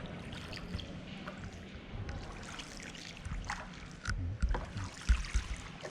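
Gondola being rowed along a canal: water lapping and trickling against the hull, with a few low thumps about three to five seconds in.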